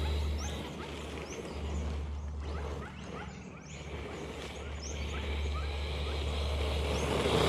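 Birds chirping, many short rising chirps, over a steady low rumble that grows a little louder near the end.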